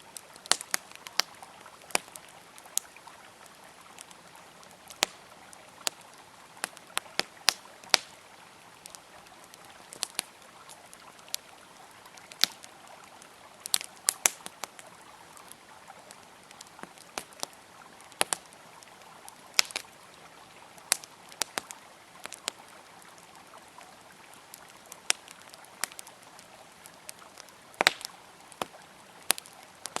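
Wood campfire crackling, with sharp irregular pops several times a second at times, over the steady rush of a flowing river.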